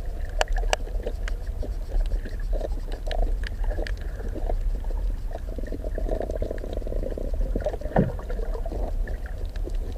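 Muffled underwater sound: a steady low rumble of water moving against the camera, with scattered sharp clicks and soft sloshing.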